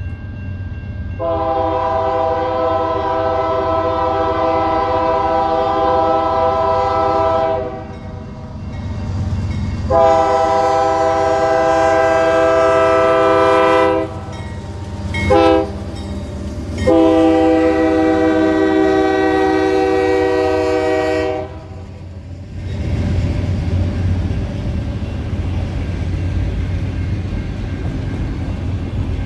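Norfolk Southern freight locomotive's multi-chime air horn blowing the grade-crossing signal: long, long, short, long. After the horn stops, the train rolls past with a steady rumble of engine and wheels.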